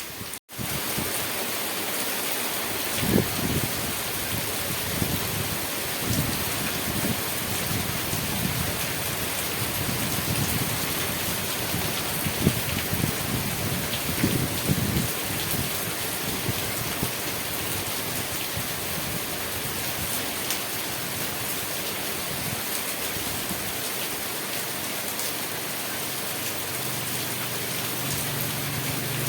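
Steady rain falling on surfaces, an even hiss with scattered drop impacts. Irregular low rumbles come through in the first half. The sound cuts out for an instant just after the start.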